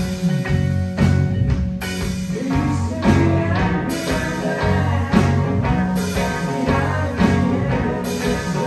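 Live band playing: electric guitar and drum kit over strong low bass notes, with cymbal hits every second or two.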